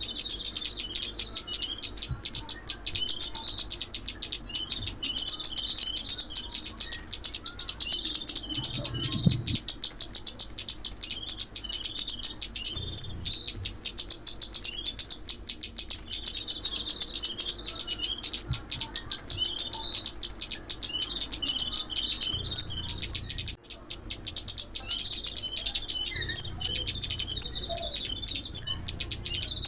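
Sunbird song, the 'chim ốc mít' lure call: rapid, high, thin twittering and chirps in long unbroken runs, with a sustained high note under the twitter for several seconds in the middle.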